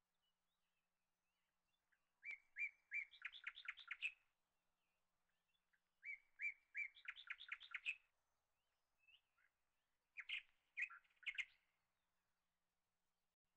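A small bird singing three short phrases, about two seconds in, six seconds in and ten seconds in; each opens with a few spaced notes and runs into a quick series of notes.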